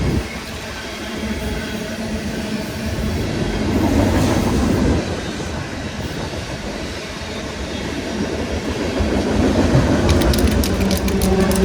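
Freight train rolling past with a steady rumble of cars on the rails, then a quick run of sharp clicks near the end.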